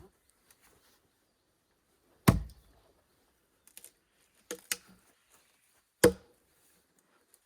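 Sharp, hard knocks or chops: one loud strike about two seconds in, a quick pair of lighter ones near the middle, and another loud strike about six seconds in.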